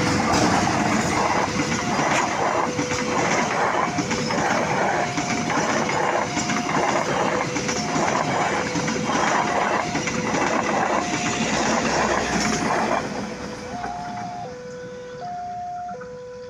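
A train running past a level crossing, its wheels clattering over the rail joints in a steady rhythm, fading out about three-quarters of the way through. Under it, the crossing's electronic warning alarm keeps alternating between a low and a high tone.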